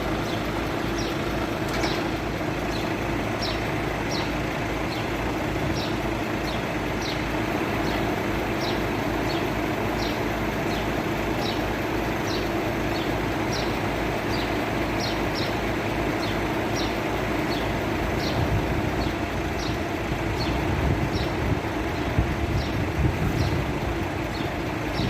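Boom truck's diesel engine running steadily, with a low rumble that grows stronger and rougher about three-quarters of the way through. Short high chirps repeat over it, about every two-thirds of a second.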